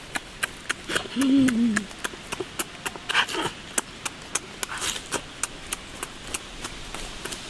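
A short hummed 'mmm' from a person's voice, falling in pitch, about a second in, over steady rapid clicking about five times a second.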